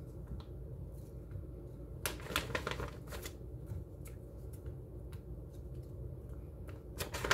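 Raw potato slices being laid by hand into a cast iron skillet, making scattered soft taps and clicks: a cluster about two to three seconds in and another near the end, over a low steady hum.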